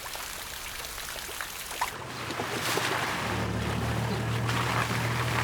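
Rain falling with a steady hiss. About two seconds in, it gives way to a vehicle engine running low and steady, with a rushing of water, as the vehicle drives through puddles on a wet road.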